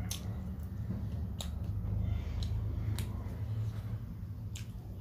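Close-up eating sounds of a person chewing rice and curry eaten by hand: wet lip smacks and mouth clicks about once a second over the chewing.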